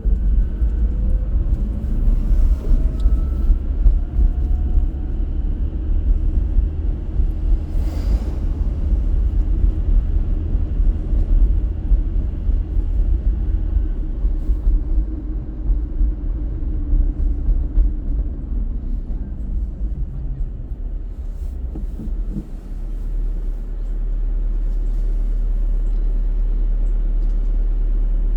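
Car driving through city streets: a steady low rumble of road and engine noise, settling into a smoother low hum about three-quarters of the way through.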